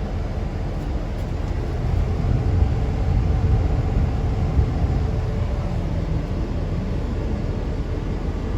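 New Holland CR9.80 combine harvester's diesel engine running steadily, a low rumble.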